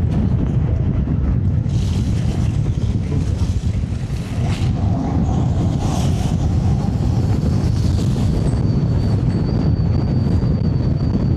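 Wind buffeting the camera's microphone during an electric scooter ride, a steady, loud low rumble. A faint high whine comes in over the last few seconds.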